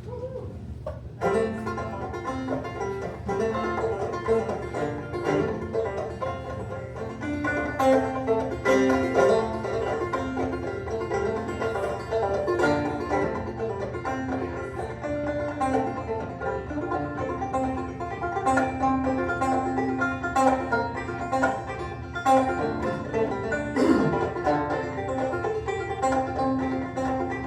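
Clawhammer banjo with a real skin head, played with acoustic guitar backing on an old-time instrumental tune, starting about a second in with a steady, driving rhythm.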